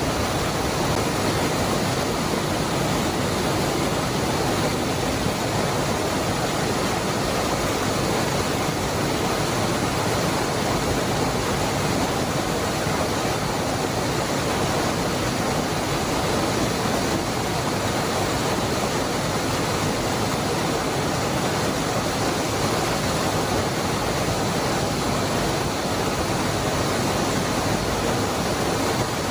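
Waterfall (Cascada del Hervidero) pouring steadily, a dense, even rush of falling water.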